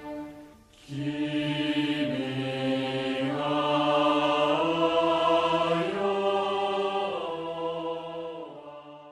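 Background music: voices singing long held chords in a slow choral or chant style, coming in after a brief dip about a second in and fading out near the end.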